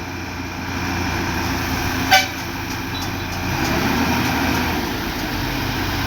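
Concrete mixer truck's diesel engine running steadily while it pours concrete. There is a brief toot about two seconds in, and the engine note swells slightly around four seconds.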